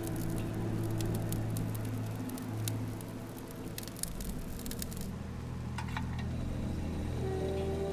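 A hot steel nakiri blade crackling and sizzling in quenching oil: dense quick crackles that die away about five seconds in, over a steady low hum.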